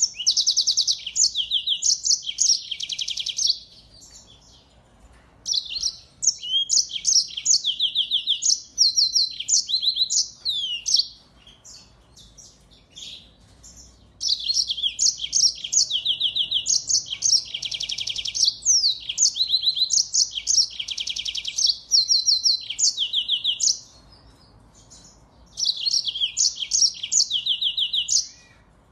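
Small finches singing: several bursts of rapid high-pitched trills and varied chirping notes, with short pauses between phrases.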